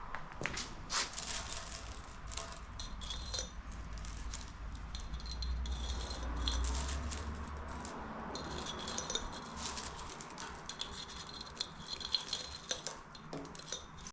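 Small hard metal objects clinking and rattling as they are handled, an irregular run of light knocks with brief metallic ringing over a low steady hum.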